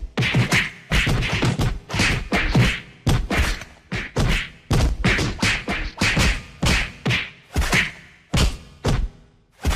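A quick run of sharp stock hit sound effects, whacks and thuds, about two to three a second, with a short pause near the end.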